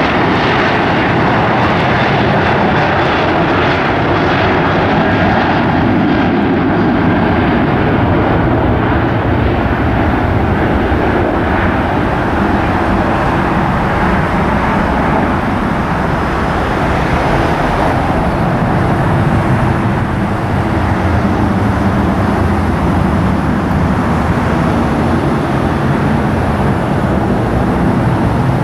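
Airliner's engines running with a loud, steady roar.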